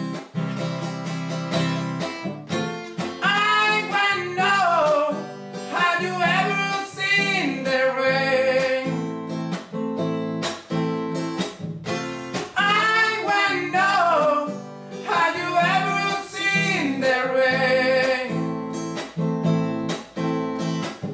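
Acoustic guitar strummed in a steady rhythm, with a voice singing the melody over it.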